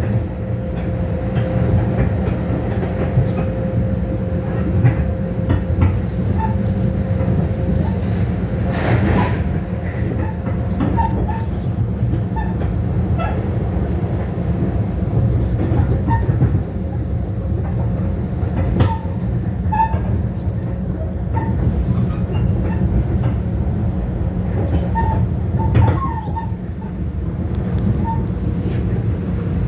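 Riding inside a Long Island Rail Road commuter train at speed: a steady low rumble of wheels on rail, with scattered clicks and knocks from rail joints and switches. A faint steady whine fades out about eight seconds in.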